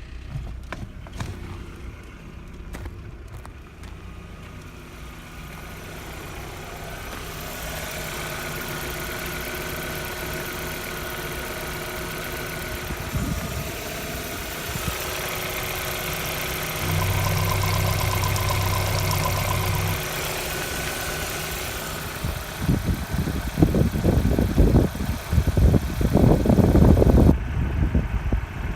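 Opel Omega B's 2.0-litre X20XEV 16-valve four-cylinder petrol engine running at idle. It is held at raised revs for about three seconds a little past the middle, then revved in several sharp blips near the end.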